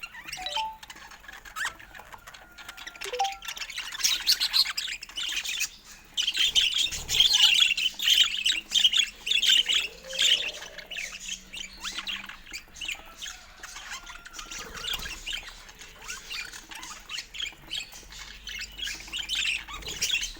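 Budgerigars chattering: a quick, continuous run of short high chirps and squawks, busiest and loudest from about six to eleven seconds in.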